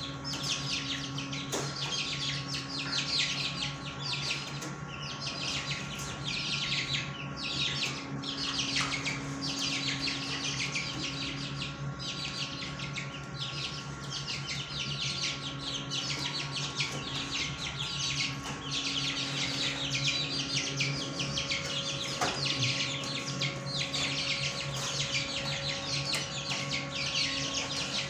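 Many caged fancy birds chirping busily and continuously, a dense overlapping chatter of short high calls, with a steady low hum underneath.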